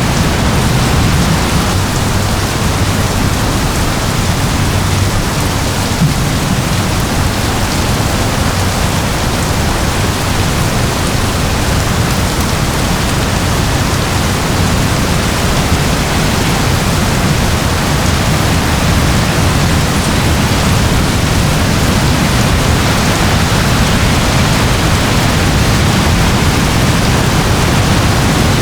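Steady heavy rain, a continuous even hiss with a deep low rumble beneath it.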